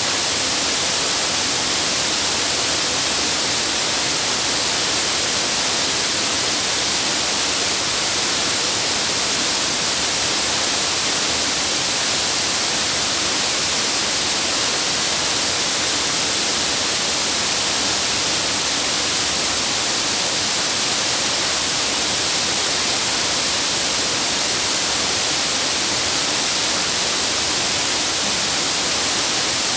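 Waterfall rushing: a steady, loud hiss of falling water that does not change.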